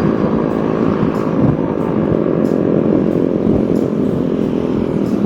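Motor vehicle engine running steadily close by, over continuous road noise.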